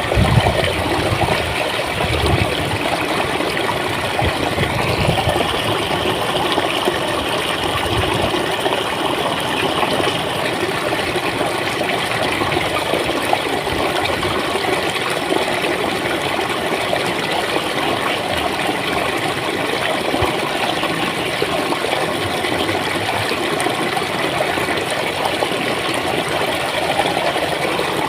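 Clear water flowing and gurgling in a steady, even rush.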